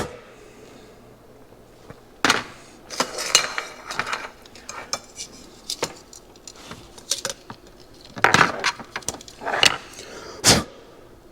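Small metal carburetor parts and hand tools clinking and tapping against each other and a hard surface, in scattered irregular knocks with a few louder ones, the loudest near the end.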